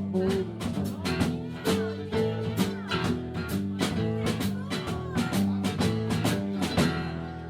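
Live band playing the instrumental close of a song, with guitar over a steady drum beat. The beat stops about seven seconds in and the last chord rings out and fades.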